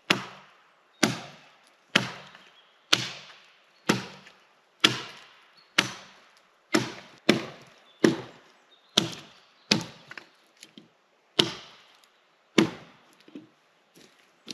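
Wood being chopped with an axe: about fourteen sharp blows, roughly one a second, each dying away quickly, with a short pause before the last two.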